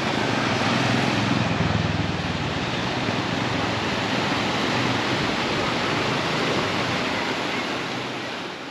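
Steady rushing roar of a waterfall, fading in and fading out near the end.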